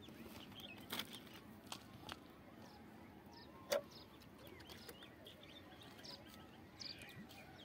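Faint birds chirping, with a few soft clicks and one sharper click a little under four seconds in.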